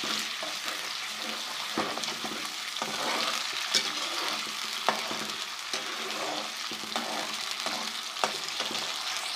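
Chopped onion and ginger-garlic paste sizzling in hot ghee with a little water, stirred in the pan, with a spoon clicking against the pan now and then.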